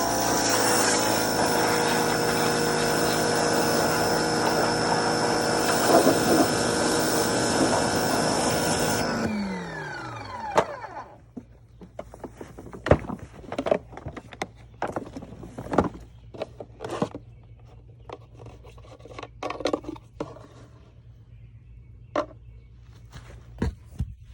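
A motor-driven tool runs steadily with a hiss, then is switched off about nine seconds in and spins down. Scattered knocks and clatter follow.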